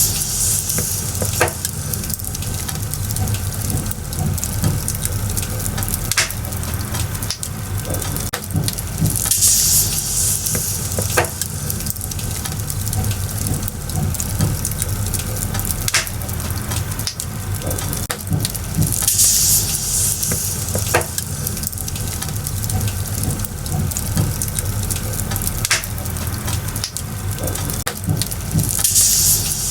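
Burning firewood crackling: a steady hiss broken by many sharp crackles and pops, with louder swells of hiss roughly every ten seconds.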